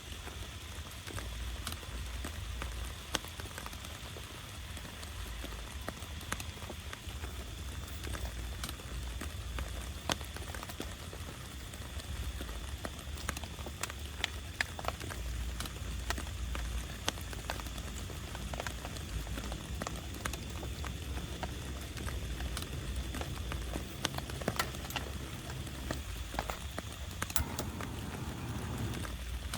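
Steady rain falling, with heavy drops tapping sharply at irregular intervals and a low rumble underneath.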